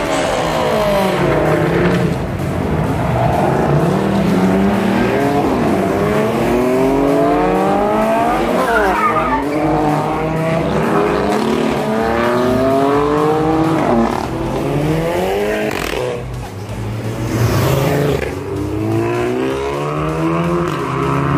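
Car engine revving hard again and again, its pitch climbing for a second or two, dropping back, then climbing again.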